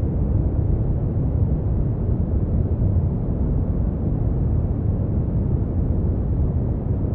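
Synthetic brown noise: a steady, deep rumbling hiss with most of its energy in the bass and little treble, unchanging throughout.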